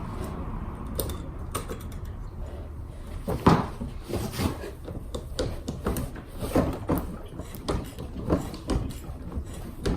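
Irregular knocks and clanks of hand tools working on a Honda Today scooter's seized rear wheel, the sharpest knock about three and a half seconds in.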